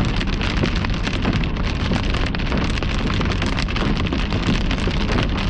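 Hail and rain pelting a car from inside the cabin, a dense, steady patter of many small hits over the rumble of the moving car.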